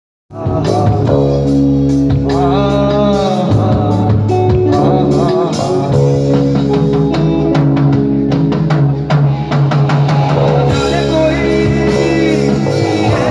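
Live rock band music on stage, with guitar, drums and a sung melody, loud and steady. It starts abruptly just after the beginning.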